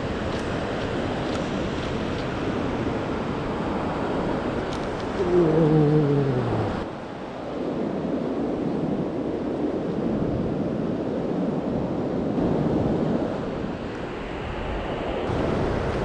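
Surf washing on a sandy beach with wind buffeting the microphone. About five seconds in, a short louder sound slides down in pitch for about a second and a half.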